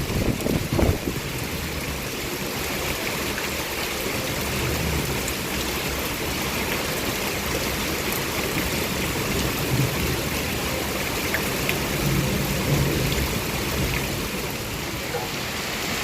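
Heavy rain falling steadily, a dense even hiss, with a few low thumps in the first second.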